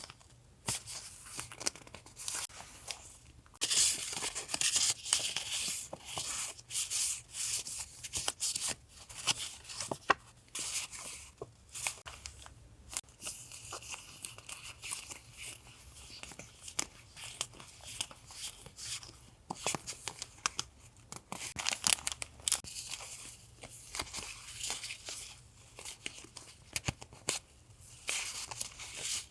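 Paper and plastic packaging being handled and torn open: crinkling and tearing in short bursts, with small taps and clicks throughout.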